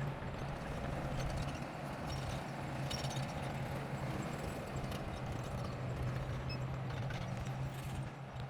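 Heavy-equipment diesel engine running steadily with a low hum, with scattered clanks and knocks, likely from a bulldozer at work.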